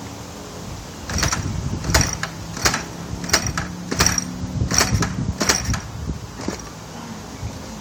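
A run of about nine sharp mechanical clacks, roughly one every 0.7 seconds, over a faint steady low hum, as the freshly piped machine is readied to start.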